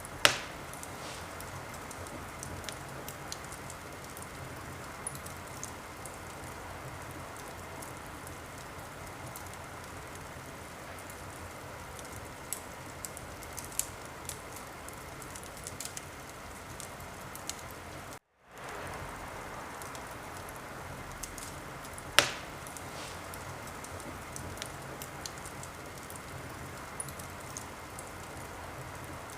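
Wood fire crackling in a fireplace: a steady hiss with scattered small crackles and two loud single pops, one right at the start and one about 22 seconds in. The sound drops out completely for a split second about 18 seconds in.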